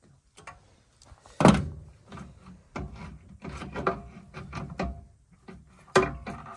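Irregular knocks and rubbing from objects being handled, with a loud thud about a second and a half in and another near the end.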